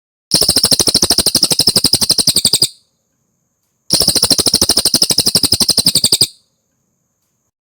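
Cililin bird singing two rapid trills of evenly repeated high notes, about ten a second, each trill lasting about two and a half seconds, with a pause of about a second between them.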